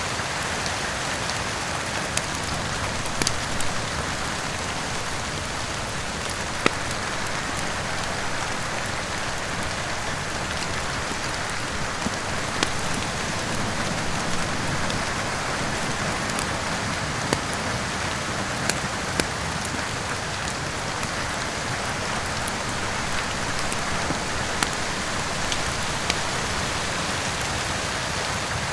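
Steady rain falling, with scattered sharp crackles and pops from a wood fire in a fireplace coming every second or few at irregular intervals.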